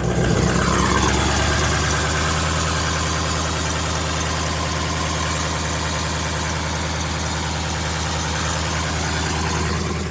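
2003 Ford F450's V8 diesel engine idling steadily with an even diesel clatter, strong-sounding.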